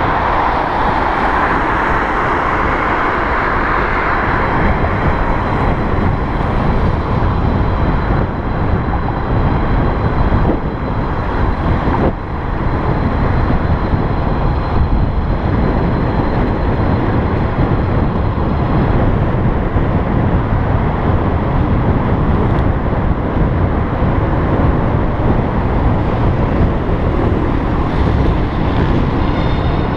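Wind rushing over the microphone of a camera riding on a moving electric bicycle, mixed with road and traffic noise, with a faint steady high tone.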